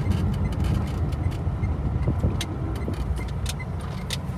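Car interior: low, steady engine and road rumble as the car moves slowly, with occasional light clicks and rattles.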